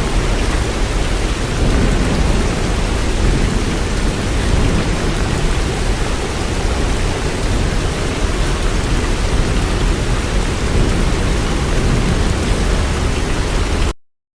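Loud, steady rush of water with a deep low rumble underneath, cutting off suddenly near the end.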